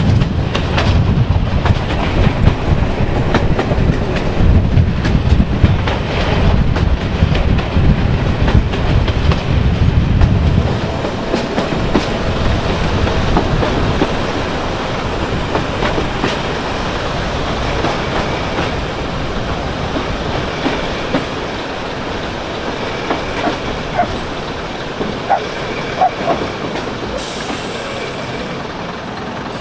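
Passenger train heard from an open carriage window: wheels clicking over rail joints under a heavy rumble that drops away about a third of the way through as the train slows. Later come scattered louder clicks and a faint squeal as it draws into a station.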